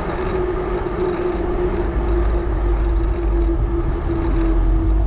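Tire hum from a Salsa Journeyman bike's 650b tires rolling on pavement: a steady, loud drone whose pitch sinks slightly. Heavy low rumble of wind on the microphone runs underneath.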